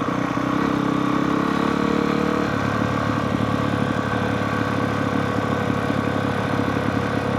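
Honda CRF450R dirt bike's single-cylinder four-stroke engine running steadily at low revs, its note changing to a lower, rougher beat about two and a half seconds in.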